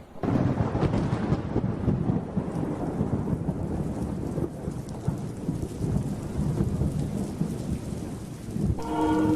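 A thunderclap breaks just after the start and rumbles on over steady heavy rain. Near the end a held musical note comes in over the rain.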